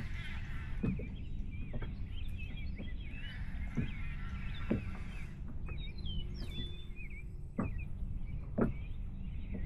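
Outdoor birdsong: many birds chirping and singing in quick curling phrases, over a steady low rumble. About six sharp knocks come at uneven intervals, the loudest near the end.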